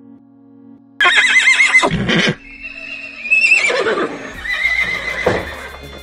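Horse whinnying: a loud call with a quavering pitch starting about a second in, followed by two shorter, weaker whinnies.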